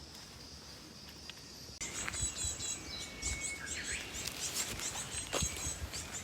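Woodland birds chirping and calling. From about two seconds in the birdsong gets louder, with quick repeated chirps and a short whistle that drops in pitch, over soft thuds of footsteps on a path.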